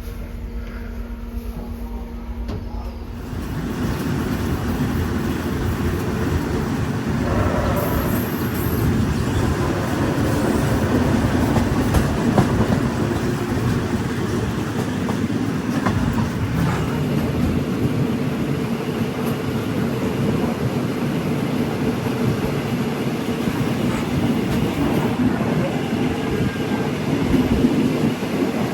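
Train carriage running along the track: a steady rumble and rattle of wheels and coach. It comes in about three seconds in, after a quieter start with a steady hum.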